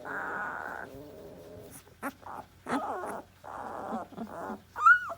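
Newborn puppies whining and grunting in short cries, with a high squeal near the end.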